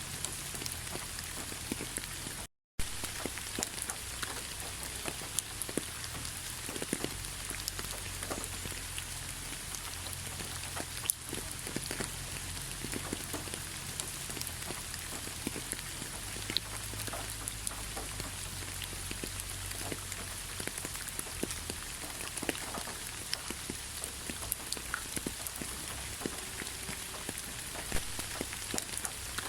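Steady rainfall, with many separate drops ticking close to the microphone over an even hiss. The sound cuts out for a fraction of a second about two and a half seconds in.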